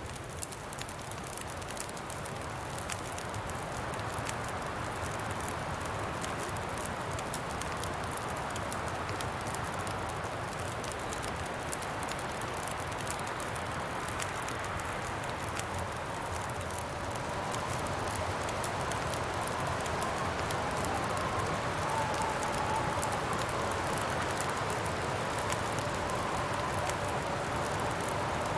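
Campfire crackling with small sharp pops over a steady rush of wind. The wind swells about two-thirds of the way in and brings a faint whistling tone.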